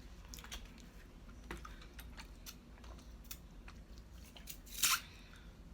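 Close-up chewing and eating noises with small mouth clicks, and a brief louder crackle about five seconds in.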